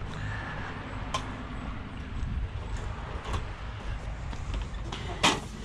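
Scattered light clicks and knocks from scrap being handled, over a low steady rumble, with one sharper clank near the end.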